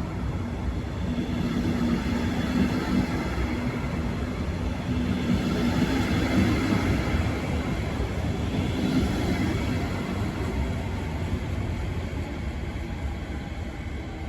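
Train running along the track: a steady rumble with a low hum.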